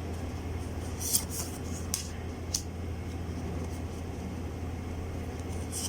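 Oracle cards being handled during a flip-through: a few short, crisp swishes and taps of card against card, over a steady low room hum.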